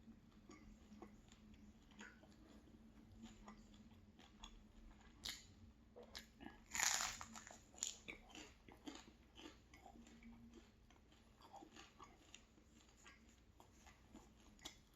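A person biting into and chewing an apple cherry pastry close to the microphone: soft, scattered crunches and mouth sounds, with the loudest crunchy bite about seven seconds in.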